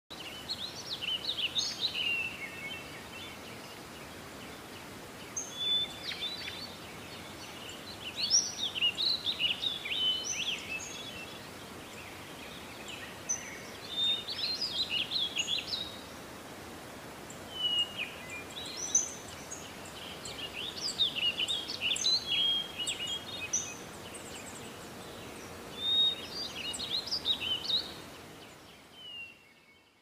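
Songbirds singing: bouts of rapid chirps and warbling phrases separated by short pauses, over a steady outdoor hiss, fading out at the end.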